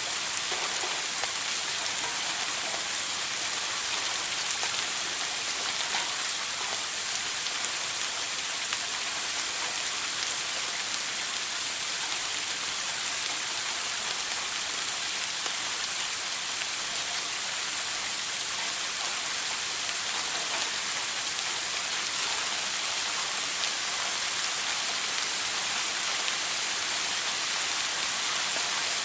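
Running shower: a steady spray of water pattering down, an even hiss with scattered drop ticks.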